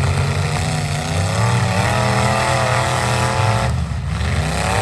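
Truck engine running under load with a deep rumble and a held, higher-pitched note that breaks off near the end and then climbs again as it revs up.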